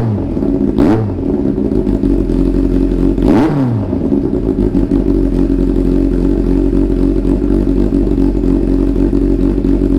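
Yamaha FJ1200 inline-four engine idling while warming up, with quick throttle blips right at the start, about a second in and around three and a half seconds in, each rising and falling in pitch, then settling to a steady idle.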